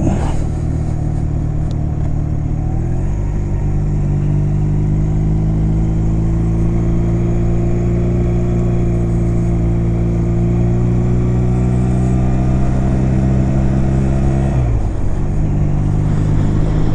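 2009 Honda Rebel 250's air-cooled parallel-twin engine running under way at cruising speed. Its pitch steps up about three seconds in, climbs slowly, then dips briefly near the end and comes back.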